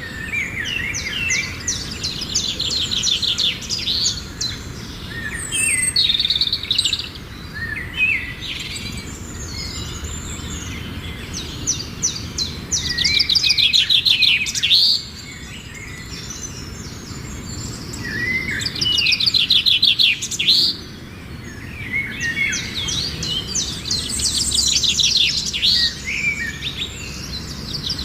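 Small birds singing in repeated bursts of rapid high trills and chirps, with quieter spells between the bursts, over a low steady background noise.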